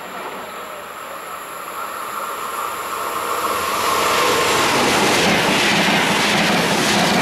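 A train approaching along the line, growing steadily louder over about four seconds, then passing close by with a loud, steady rush of wheels on the rails.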